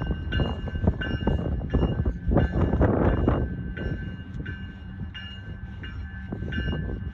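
Train running past on the rails, a heavy rumble with clatter that peaks about halfway through and then eases. Over it, a ringing tone repeats evenly about one and a half times a second.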